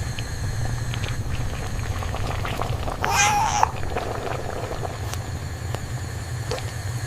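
A cat gives a single short call lasting about half a second, about three seconds in, over a steady low hum.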